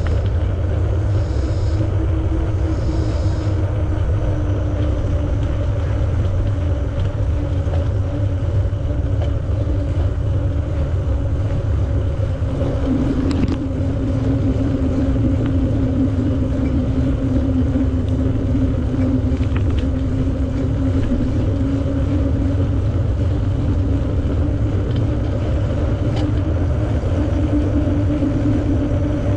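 Riding noise from a moving bicycle: wind rumbling on the microphone over a steady rolling hum that drifts slightly in pitch with speed.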